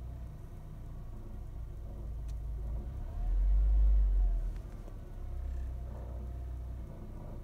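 1998 Toyota Corolla engine running, with a louder surge about three seconds in that lasts about a second and a half, as the revs rise and fall back.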